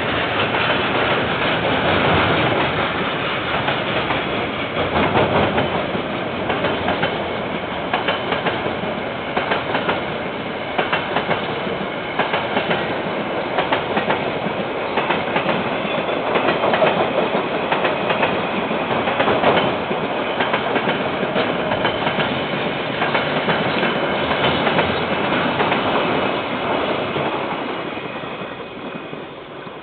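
KiwiRail train wagons rolling past, the wheels clicking steadily over the rail joints. The sound drops away near the end.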